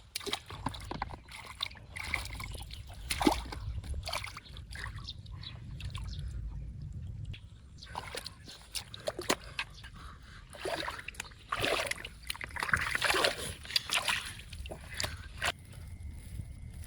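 Water splashing and sloshing in irregular bursts as hands work in it, with scattered knocks, loudest near the end.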